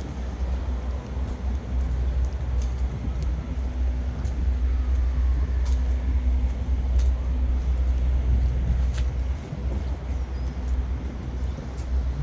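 Low, steady rumble of an idling truck engine, with a faint steady hum and a few light clicks.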